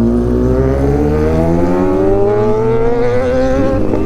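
Motorcycle engine accelerating, its pitch rising steadily, then dropping back near the end.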